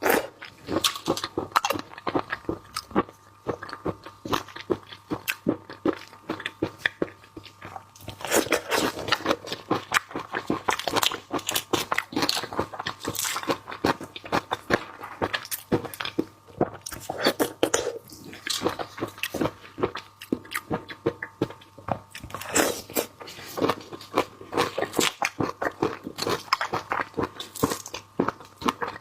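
Close-miked biting, crunching and chewing of sauce-marinated shrimp: a dense run of crisp crackles and wet chews. The crackles are sparser in the first few seconds and thicker after that.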